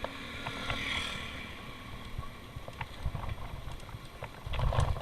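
Bicycle riding noise: irregular clicks and rattles over a low rumble, with a louder bump near the end.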